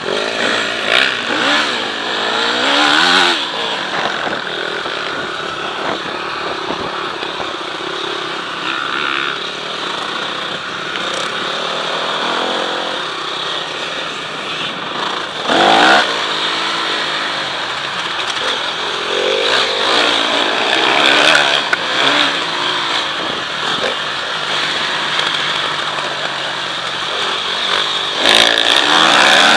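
Motocross bikes' engines revving up and down through the gears. There are sudden louder surges about sixteen seconds in and again near the end.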